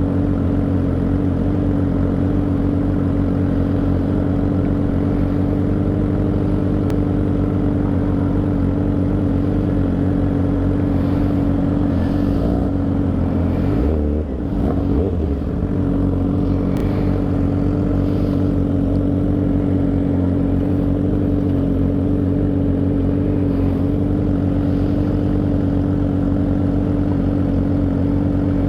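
Motorcycle engine running steadily under way, recorded from the bike. About halfway through the engine note dips briefly and then picks back up.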